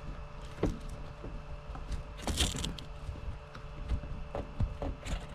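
Light clicks and knocks of handling, with a brief rustle a little over two seconds in, over a faint steady hum.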